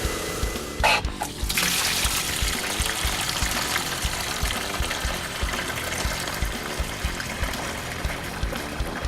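Background music with a steady beat, over the steady hiss of a hot water carpet extractor spraying, which starts about a second and a half in.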